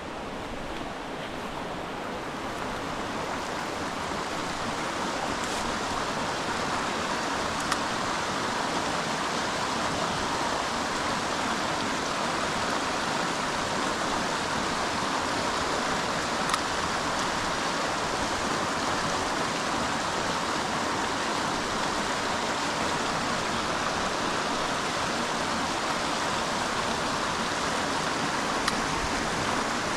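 Steady rush of creek water flowing, growing louder over the first few seconds, with an occasional faint click.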